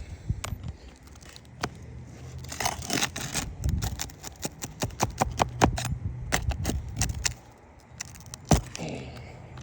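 A metal roof snake working against asphalt shingles: a run of sharp metallic clicks and knocks, with a stretch of scraping about 2.5 to 4 seconds in and one loud knock near the end.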